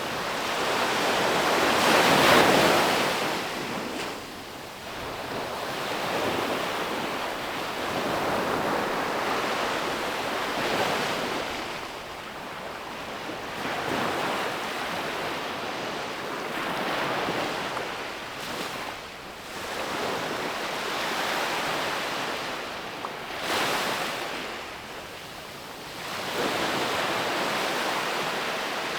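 Ocean waves breaking and washing on a beach, surging and receding every few seconds, with the biggest surge about two seconds in. Some wind on the microphone.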